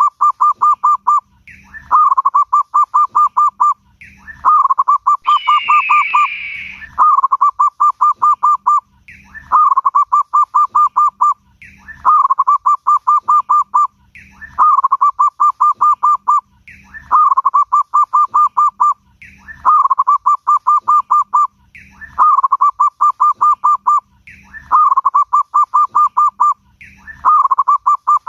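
Zebra dove (perkutut) singing its cooing song in evenly repeated phrases about every two and a half seconds, each a short rising note followed by a rapid run of about ten clipped coos. About five seconds in, a higher, scratchy falling sound overlaps for about two seconds.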